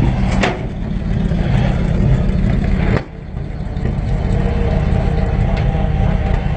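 Vehicle engine idling steadily, with a brief sharp sound about half a second in and a sudden drop in level about three seconds in.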